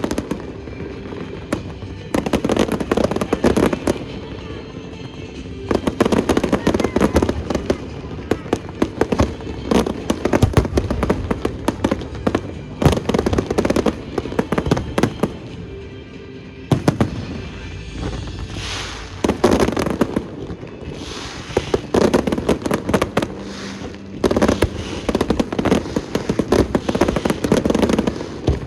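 Fireworks exploding in dense volleys of bangs and crackles, with short lulls between salvos, over music playing along with the show.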